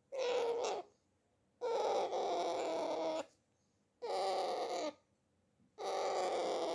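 Pet parrot making a series of four drawn-out vocal noises, each lasting up to about a second and a half, with short silences between them.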